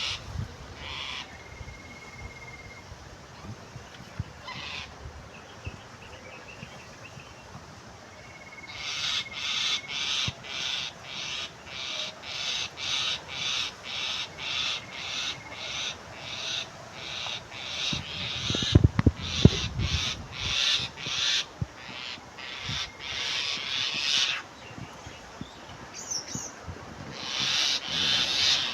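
A bird giving harsh, rasping calls over and over, about two a second, for long runs. There is a brief low rumble about two-thirds of the way through.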